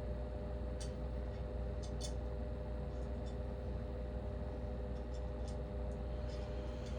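Faint light clicks and taps of small lamp parts being handled during assembly, a few scattered through, over a steady background hum.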